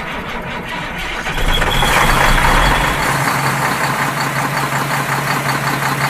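Heavy vehicle engine running, louder about a second and a half in, then running steadily.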